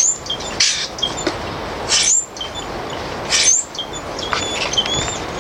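Common grackle calling: a series of harsh, noisy squeaks, each ending in a short rising squeal, with many quick high chip notes between them.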